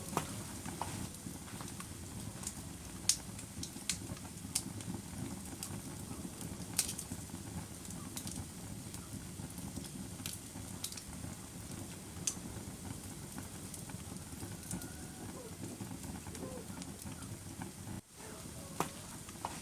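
Wood fire burning: a steady low rush of flames with irregular sharp crackles and pops, a few of them louder, and a brief dropout about eighteen seconds in.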